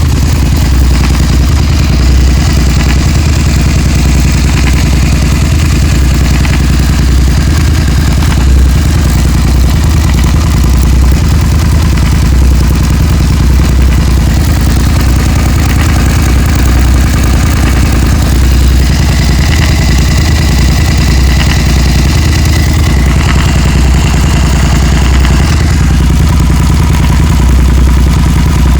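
Suzuki SV650's V-twin engine idling steadily with a rapid ticking in its running.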